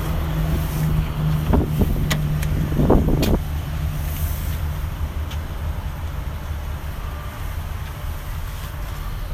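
Ford E350 cube van's engine idling steadily, with a few short louder surges and clicks in the first three seconds before it settles to an even idle.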